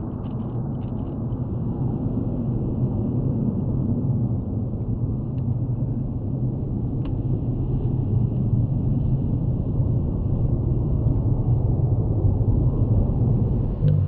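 Jet engine noise from a Panavia Tornado's twin RB199 turbofans: a steady, deep rumble.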